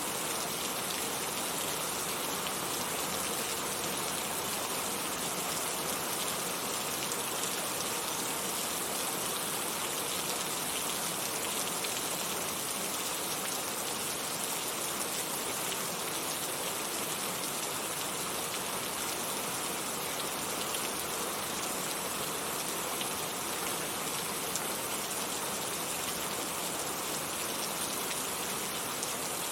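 Heavy rain falling steadily, an even hiss of dense raindrops with no breaks or changes.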